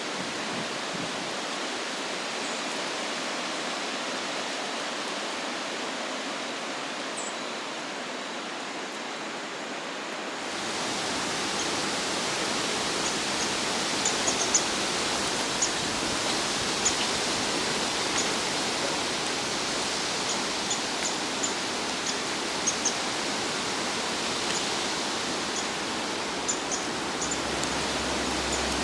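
Wind rushing through the trees as a steady noise, growing louder and brighter about ten seconds in. From then on, scattered faint high ticks sound over it.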